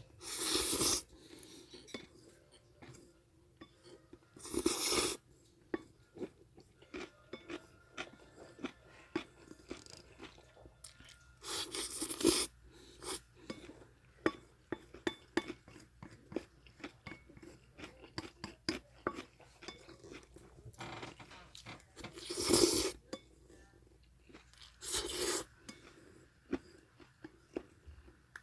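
A person eating japchae (stir-fried glass noodles) close to the microphone: chewing and mouth sounds with many small clicks, and about five louder noisy bursts of under a second each.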